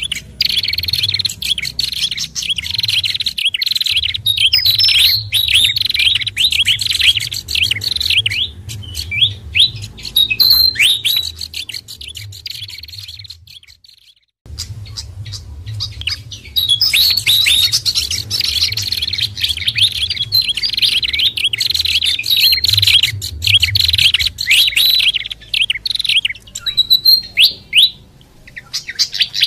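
Small songbirds chirping and twittering in a rapid, dense chatter, played as a bird-lure recording. The calls break off for a moment about halfway through, and a low hum runs underneath.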